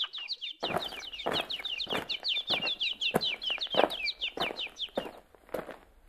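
A bird twittering in a quick run of high chirps, each falling in pitch, that stops about five seconds in. Under it are regular footsteps, about one every half second.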